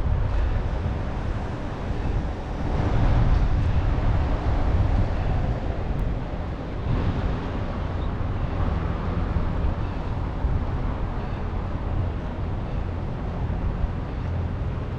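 Wind rushing over the microphone of a camera on a moving e-bike, with a steady low rumble from the ride. It grows a little louder about three seconds in.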